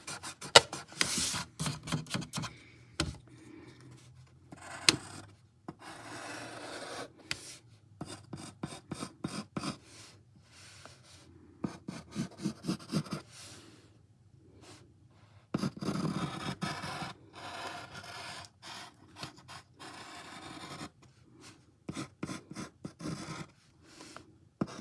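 Drawing on paper: runs of quick scratching strokes and stretches of steady rubbing, with short pauses between them, as the outline of a figure is reworked.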